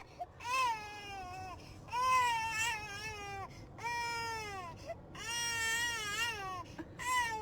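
Dog whining in a run of about five long, high-pitched cries, each wavering up and down in pitch.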